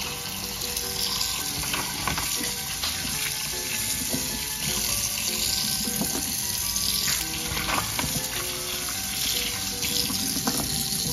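Tap water running and splashing into a sink, a steady hiss, with a few light clicks as small toy cars are set down on the countertop.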